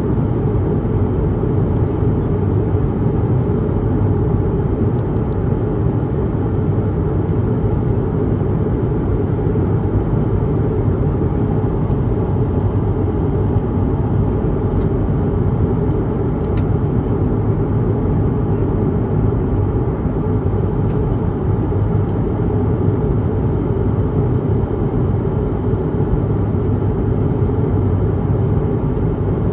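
Steady cabin noise inside an Airbus A220-300 in flight: the low, even roar of its Pratt & Whitney PW1500G geared turbofans and the airflow past the fuselage, with a faint steady high whine above it.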